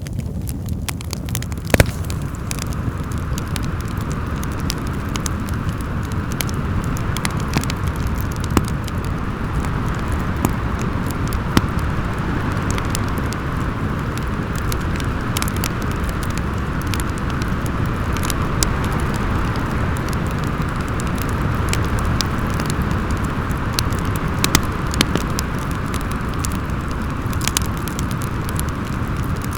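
Wind howling in a snowstorm with a wood fire crackling: a steady rushing rumble with a higher whistling band, and sharp, irregular pops and snaps from the fire throughout.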